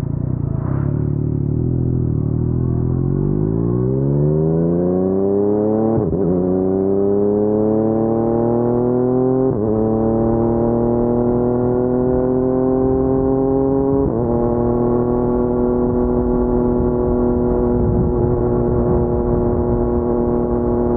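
Yamaha MT-09's crossplane three-cylinder engine through an Akrapovic carbon full-system exhaust, idling a few seconds and then pulling away, its pitch rising through the gears with three upshifts before holding steady at a low cruising speed.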